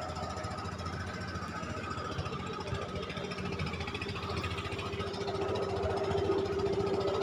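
A klotok river boat's engine running steadily with a rapid, even pulse, with a steady hum that grows louder over the last couple of seconds.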